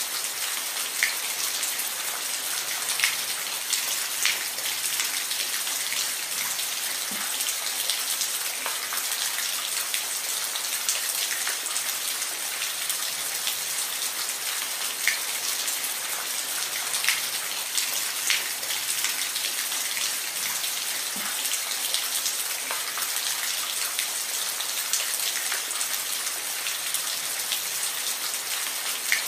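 Steady rain falling: a dense, even hiss with individual drops ticking out here and there.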